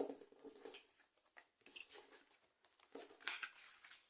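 Faint rustling and sliding of oracle cards being gathered up and put away on a table, in a few short bursts.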